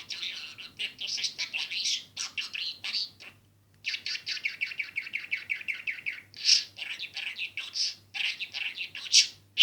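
Budgerigar (budgie) warbling and chattering in a rapid, continuous stream of chirps, with a brief pause a few seconds in and a louder chirp near the end.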